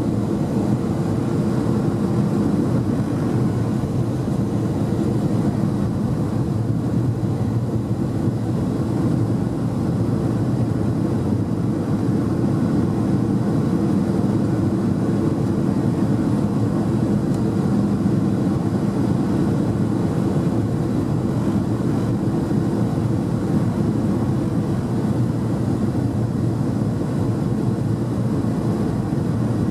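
Steady engine and airflow drone heard from inside the passenger cabin of a Rex Airlines airliner coming in to land, with several low, even tones.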